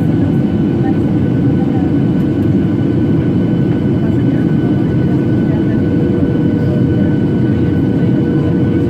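Steady cabin noise of a Boeing 737-800 airliner in flight: a constant low rumble of CFM56 jet engines and airflow, with a few faint steady whining tones above it.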